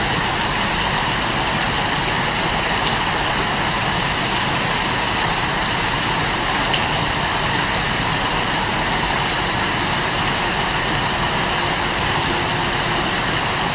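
Steady rain, an even hiss with no change in strength.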